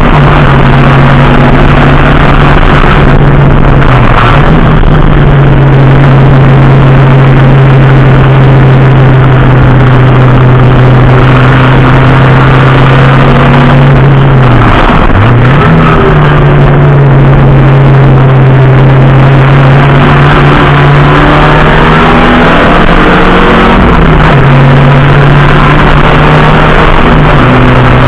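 Race car engine running hard at racing speed, very loud. Its note holds high for long stretches, drops sharply and climbs back a little past halfway, then dips again near the end as the car slows and picks up speed through corners.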